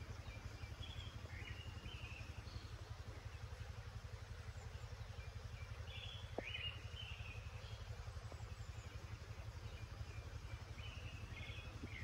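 Faint birdsong: small birds chirping in short phrases, in clusters about a second in, around six seconds in and near the end, over a steady low rumble.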